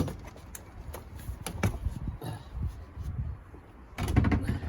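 Scattered clicks and knocks of a part being handled and pulled off by hand, with a louder run of clattering and rubbing near the end.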